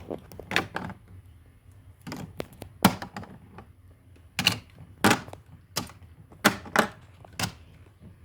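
Toy ice cream pieces clicking and knocking together as they are handled: about a dozen sharp clacks at uneven intervals.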